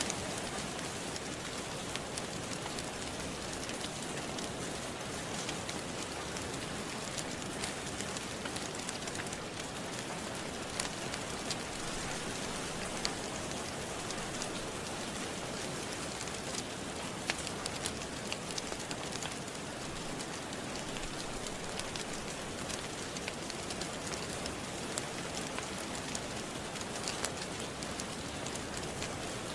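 Steady rain falling, with scattered sharp crackles and pops of a wood fire in a fireplace.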